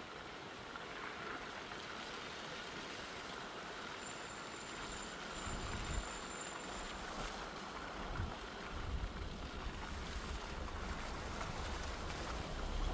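Steady hiss of rain falling, with wind gusts rumbling on the microphone from about halfway in.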